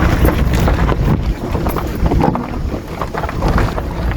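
Car driving slowly over a rough, rocky dirt road: a steady low rumble from the tyres and body, scattered short knocks of stones, and wind buffeting the microphone.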